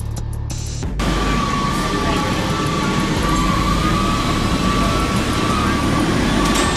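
Heavy vehicle running, a dense rumble with a steady high whine over it that starts abruptly about a second in.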